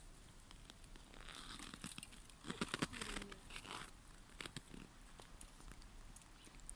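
A squirrel feeding close by: a run of crackling, crunching clicks of gnawing at food, loudest about halfway through, between quieter stretches.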